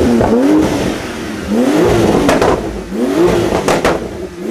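Exotic sports car engine revved in repeated short throttle blips, the pitch rising and falling about every second and a half. Sharp exhaust pops crack between the blips.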